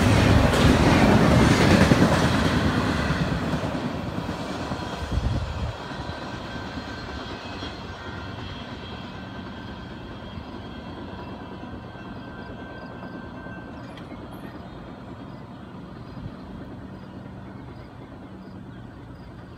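Tail end of a CSX double-stack container train rolling over a grade crossing: the clatter and rumble of the railcar wheels are loud for the first couple of seconds, then fade steadily as the train moves away, leaving a quieter steady background with a few faint ringing tones.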